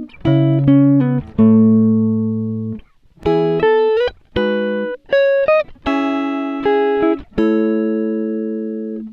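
Background music: plucked guitar chords strummed and left to ring, with short pauses between them.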